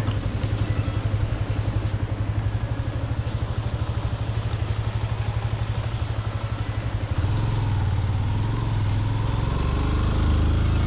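Motorcycle engine running with a fast, even pulsing beat, turning steadier and a little louder about seven seconds in.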